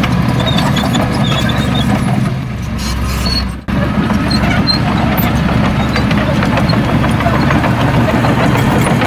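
Heavy diesel engine of earthmoving machinery running steadily; the sound eases off just past two seconds in, cuts out sharply at about three and a half seconds, then the same engine drone carries on.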